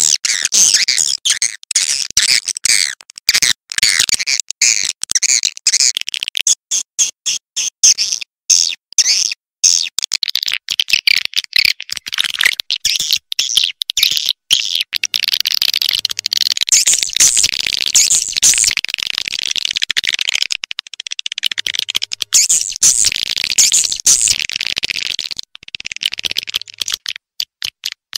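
Swiftlet calls: a dense, high-pitched twittering of edible-nest swiftlets, chopped into rapid stuttering chirps with short gaps. It is the kind of swiftlet call track played at swiftlet houses to draw the birds in.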